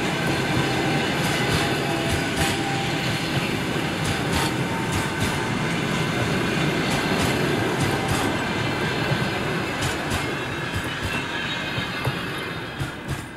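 Passenger coaches of a train rolling past on the rails, wheels rumbling with a stream of sharp clicks over the track. The sound fades over the last few seconds as the last coach goes by.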